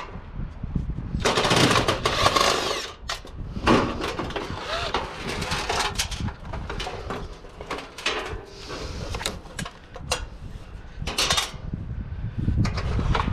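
Screws being backed out of a water cooler's metal casing with a power driver, in irregular bursts, with metal parts rattling.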